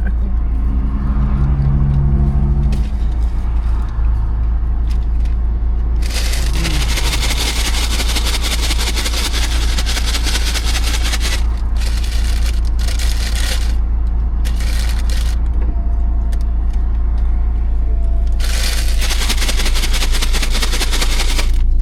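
Vehicle engine idling, heard inside the cab as a steady low rumble, while paper food bags and packaging rustle and crackle in long bursts.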